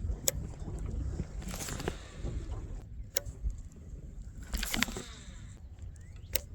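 Steady low rumble of wind and water around a small fishing boat, with about five short, sharp clicks and knocks spread through.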